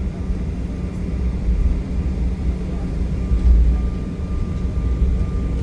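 Steady low rumble of an Embraer E175 regional jet heard from inside the cabin, with a faint steady whine above it.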